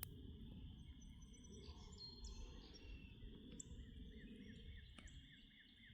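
Faint birdsong from several small birds: scattered short, high chirps, and a quick run of repeated notes about three and a half seconds in. Under it is a low, steady outdoor background noise.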